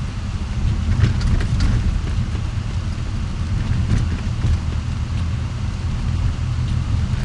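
Car driving, a steady low rumble of engine and road noise heard from inside the cabin, with a few faint clicks about a second in.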